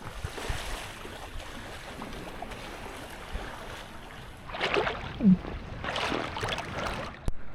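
Steady wind and water noise around a boat, with a few louder rushing bursts in the second half.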